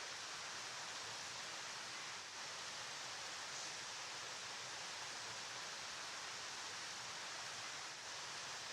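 River water flowing: a steady, unbroken rushing hiss, brightest in the treble.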